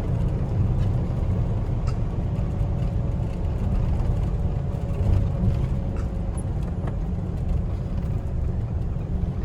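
Car driving, heard from inside the cabin: a steady low road and engine rumble, with a faint steady hum in the middle and a few light ticks.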